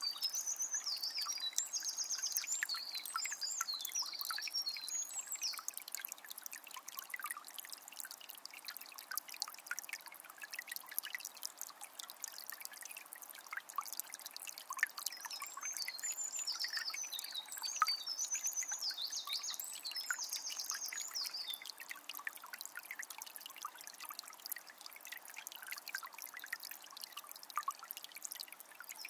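Forest river trickling and splashing steadily over stones, with a songbird singing in bursts of quick high notes near the start and again past the middle.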